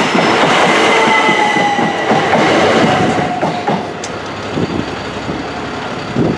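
Passenger train running past at close range over a level crossing: wheels on the rails with a high whine sliding down in pitch. The noise drops away about four seconds in as the last coach clears.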